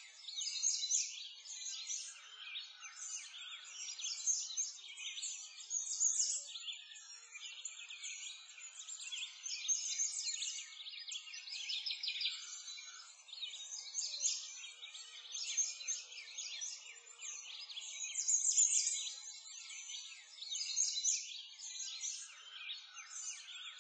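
Many birds chirping and singing at once, a continuous dense chatter of short, high calls that swells and fades without a break.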